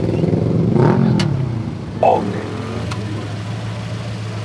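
A car engine revs once, its pitch rising and falling in the first second and a half, then settles to a steady idle. A short, loud sound cuts in about two seconds in.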